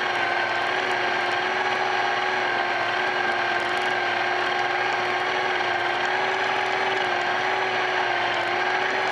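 Vaterra Twin Hammers RC truck's electric motor and gears whining at a steady, high pitch as it runs at constant speed, with the hiss of the drivetrain and tyres underneath.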